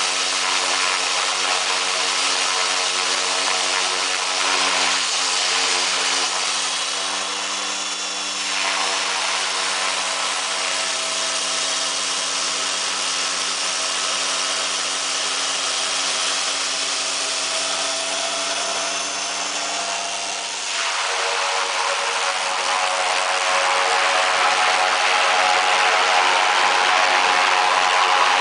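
Turboprop engine of a Cessna 195 conversion running with a steady pitched hum and high whine. About twenty seconds in the tone changes abruptly and the engine sound turns rougher and grows louder.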